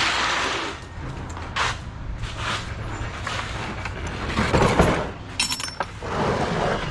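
Pieces of scrap brass clinking and rattling against each other as they are handled and sorted, with a sharp metallic clink that rings briefly about five and a half seconds in, over a steady low hum.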